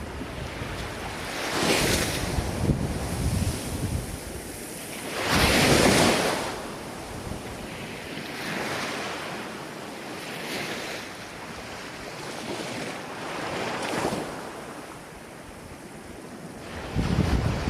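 Ocean waves breaking and washing up in the surf, swelling and ebbing every few seconds, the loudest break about six seconds in.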